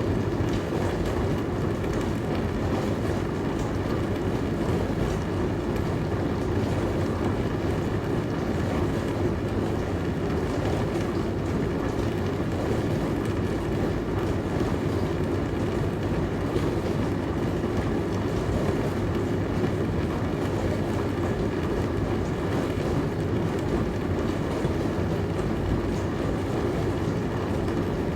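Dishwasher running: a steady rushing wash noise with a low hum, even throughout.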